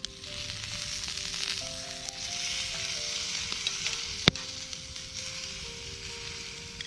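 Split Cornish game hen sizzling on a grate over a campfire, fat spitting steadily, with one sharp pop about four seconds in.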